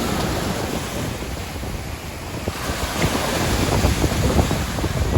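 Sea waves washing in on a beach, with wind buffeting the microphone; the surf grows louder about halfway through.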